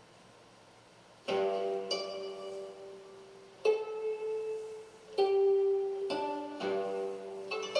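Music from a plucked string instrument playing slow, separate notes that ring on and fade. It begins after about a second of near quiet.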